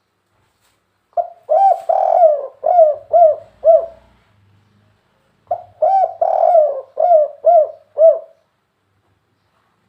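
Spotted dove cooing: two phrases about three seconds long, each a quick run of six or seven coos, the second starting about halfway through.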